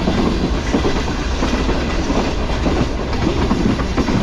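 Passenger train running at about 95 km/h, heard from on board: a steady rumble of wheels on the rails with irregular knocks from the track.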